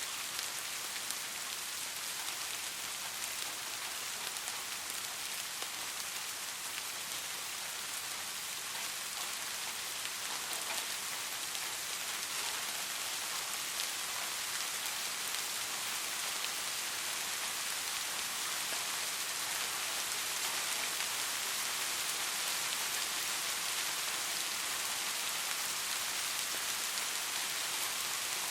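Soft rain falling steadily: an even hiss with faint scattered drop ticks, growing slightly louder about halfway through.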